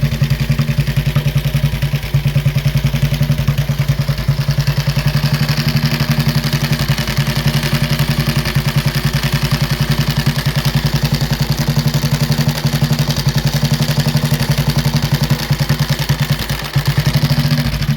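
Vintage 1930s Benelli motorcycle engine idling steadily, a loud, even exhaust beat.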